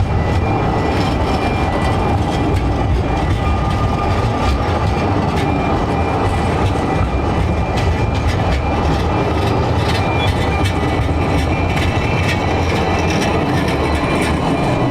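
Narrow-gauge railway train running along the line: a steady rumble with many short clicks of wheels on the rails.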